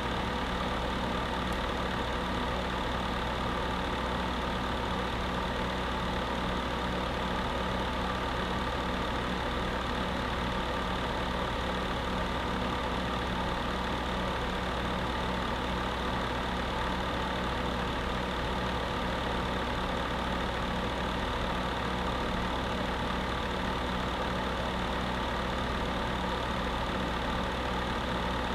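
Electric space heater running steadily: a constant fan whir over a low, even hum that never changes.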